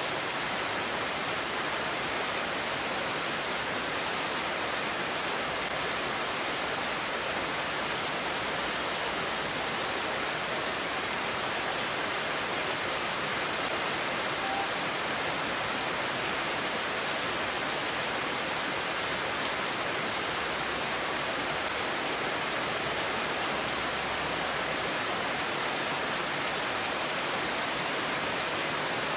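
Steady rain falling, a dense, even hiss with no break.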